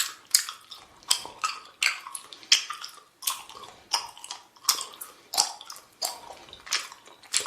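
A person chewing bubble gum with the mouth open, close up: a steady run of wet smacks and squishes, about two to three a second.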